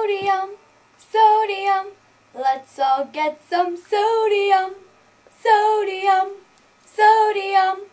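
A high voice singing a tune unaccompanied, in six short phrases with brief pauses between them.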